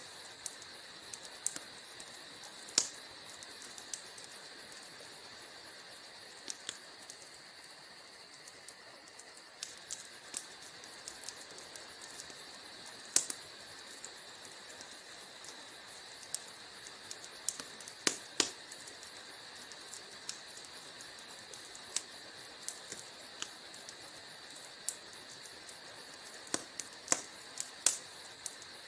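Wood fire crackling in a fireplace: irregular sharp pops and snaps, a few louder than the rest, over a steady high hiss.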